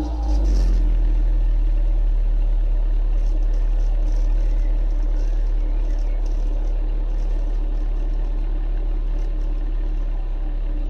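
2002 Ford Focus 1.6 four-cylinder petrol engine, tuned and fitted with an enclosed air filter, idling steadily through its exhaust with a deep, even hum.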